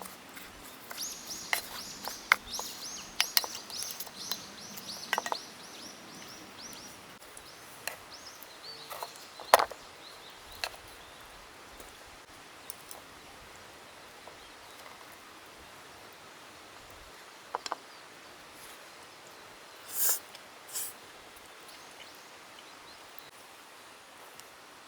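A bird sings a fast run of high, falling notes for several seconds near the start, over steady outdoor background noise. Scattered sharp clicks and knocks come through, the loudest about ten seconds in, and two short hissy bursts follow near the end.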